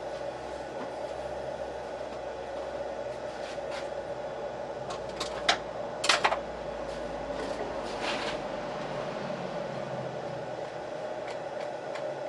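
A steady hum with a few sharp clicks and knocks about five to six seconds in, and a softer knock near eight seconds.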